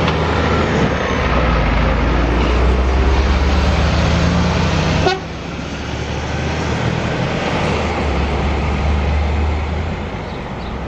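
Heavy truck engine running with a steady low rumble. The sound cuts abruptly to a quieter take about five seconds in.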